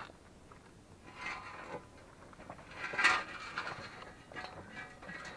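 Metal tools and parts clinking and clattering as they are handled, in two bursts about a second apart, the louder one about three seconds in, with a faint metallic ring.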